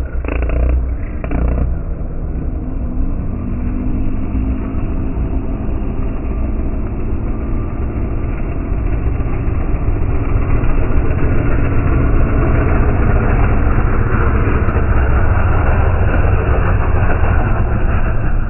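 Subaru WRX rally car engine running, a heavy low rumble that grows louder about ten seconds in.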